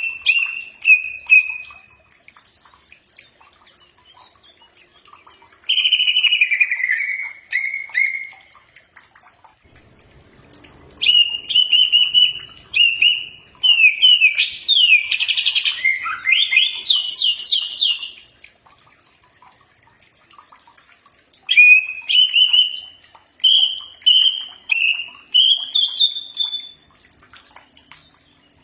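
Green leafbird (cucak ijo) song: loud, clear whistled phrases in four bouts with pauses between. The first two bouts are slurred falling whistles, the third is longer and ends in a quick run of rising notes, and the last is a series of short whistles climbing in pitch.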